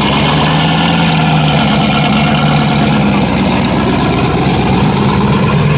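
Race vehicle engine idling steadily.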